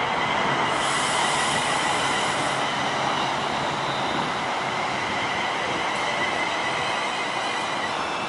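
Class 390 Pendolino electric train running slowly into the platform and braking to a stop, with a steady high-pitched squeal over the running noise that ends as it halts near the end.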